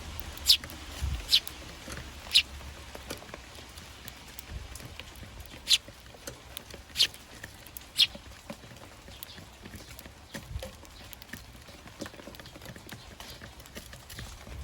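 Eurasian tree sparrows giving short, sharp chirps, about seven in the first eight seconds, then faint irregular small taps.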